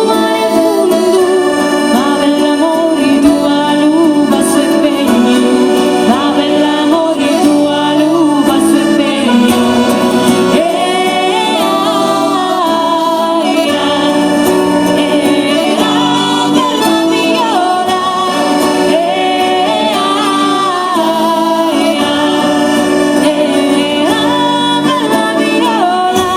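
Southern Italian folk song: singing over accordion and other instruments.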